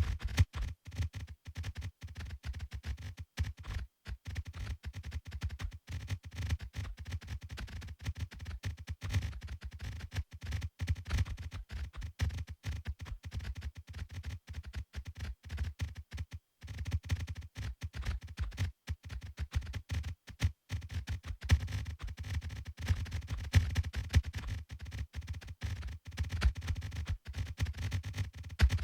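A dense, irregular stream of short clicks and low thuds, many a second, with no let-up.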